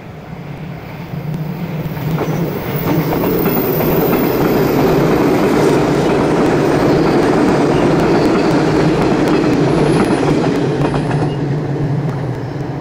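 Train passing on the track, its running noise and wheel clatter on the rails swelling over the first few seconds, holding loud through the middle and fading near the end.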